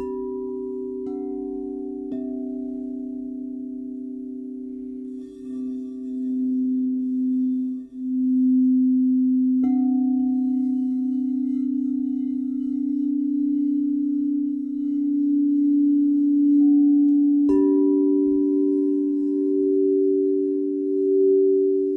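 Crystal singing bowls ringing in long overlapping tones, with a new bowl struck a few times so that fresh notes enter on top of the held ones. The low tones swell and waver in a slow throb as they sound together.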